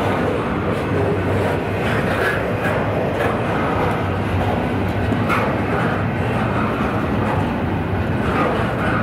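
Freight train running past with a steady rumble and a low hum, and a few faint clicks from the wheels and cars.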